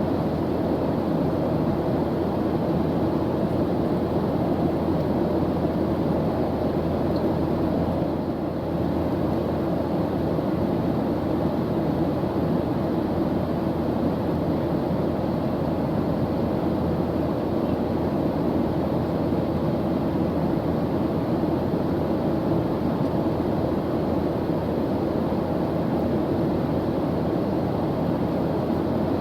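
Airplane engine drone: a steady, even rushing noise with most of its weight low, unchanging throughout.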